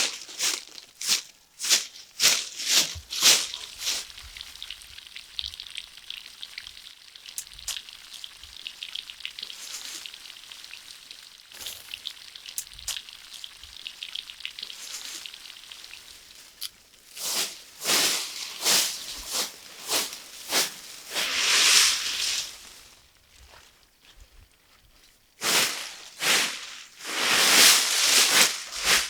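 Food frying in hot oil: a steady high sizzling hiss through the middle, with runs of short, sharp noisy strokes at about two a second at the start and again in the second half.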